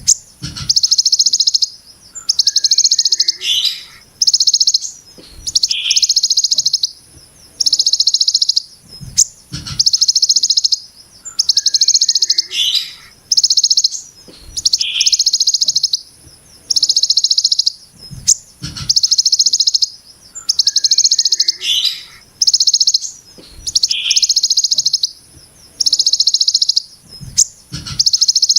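Ciblek gunung giving its 'brem' call over and over: a rough, sharp, tightly packed trill about a second long, repeated every second or so. Short rising notes come between some calls, and a few soft low thumps are heard.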